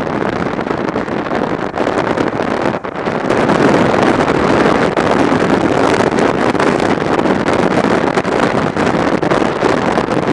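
Heavy wind rush on the microphone of a camera on a moving motorcycle, a steady roar of rushing air with the ride noise underneath, growing louder about three seconds in.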